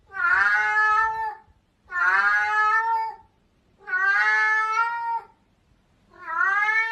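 Domestic cat meowing: four long meows, each over a second, at about two-second intervals.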